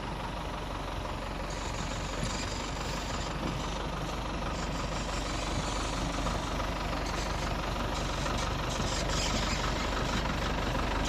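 Tractor engine running steadily as the tractor is driven, slowly getting louder.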